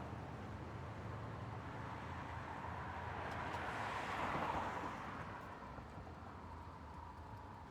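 Road traffic ambience: a steady rush of tyre and engine noise, with one vehicle passing by that swells to its loudest about halfway through and then fades away.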